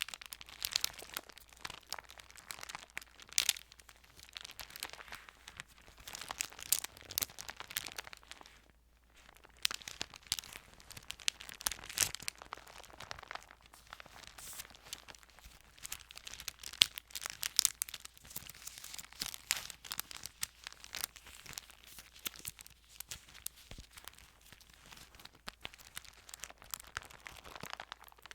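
Thin Bible paper being handled and turned, crinkling and rustling with many small crackles, with a short pause about nine seconds in.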